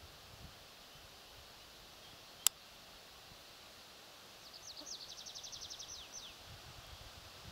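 A songbird sings one brief trill of quick, high, downward-sweeping notes over faint woodland background. About two and a half seconds in there is a single sharp click, the loudest sound.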